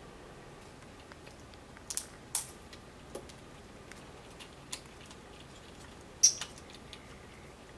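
Scattered sharp clicks and taps from parrots climbing and beaking at the wooden perches and toys of a play tree, a few sounding close together around two seconds in and the loudest about six seconds in.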